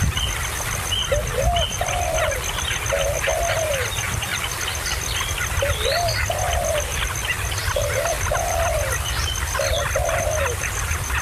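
A dove cooing over and over, in phrases of two or three rounded notes every couple of seconds, with a steady stream of short, high chirps from small birds underneath.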